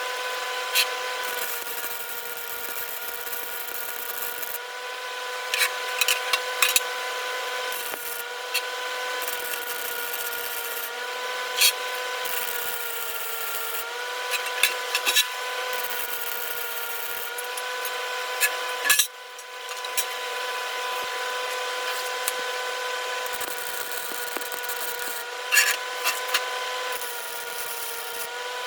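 Electric power tool running with a steady high whine that sags slightly in pitch now and then, with scattered sharp clicks and rasping over it. The tool briefly drops out about two-thirds of the way through, then carries on.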